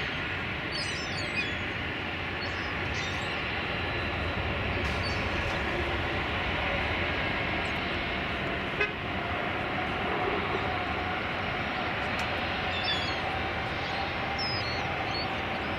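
Boeing 717's Rolls-Royce BR715 turbofans running steadily as the jet departs, a continuous engine noise with a faint whine held on a few steady pitches.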